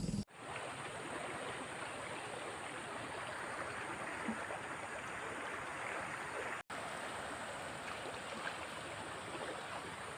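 Steady rush of flowing water, with a momentary cutout about six and a half seconds in.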